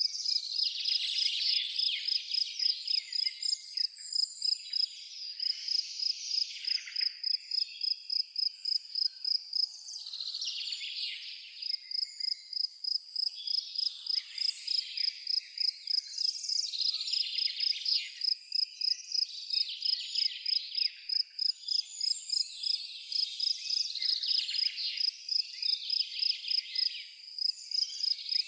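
A cricket chirping steadily in an even, high-pitched pulse about three times a second, with songbirds singing over it on and off.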